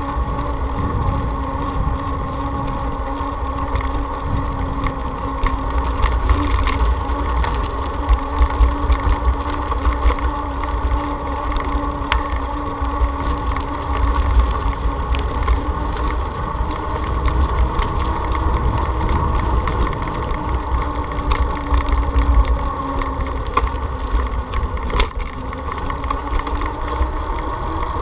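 Motorcycle riding at a steady speed: an even engine and road drone, with heavy wind rumble buffeting the microphone.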